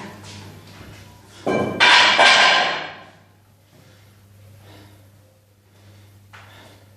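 Metal gym weights clanking, a loud ringing clatter about a second and a half in that dies away after a second or so, over a low steady hum.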